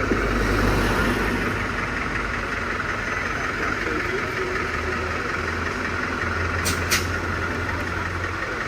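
A motor vehicle engine idling steadily, with two sharp clicks in quick succession about seven seconds in.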